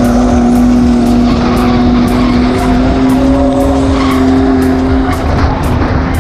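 Ford AU Falcon drift car's engine held at high revs through a long slide, its pitch creeping slightly higher, then dropping about five seconds in, with the tyres skidding.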